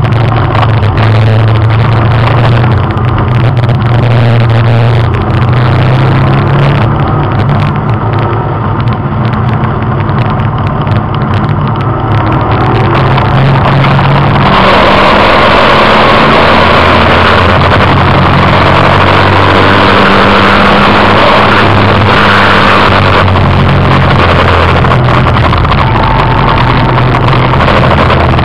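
Race car engine running hard under load, heard from inside the car at speed, with wind and road noise over it. About halfway through, the engine note drops lower and the rushing noise grows louder.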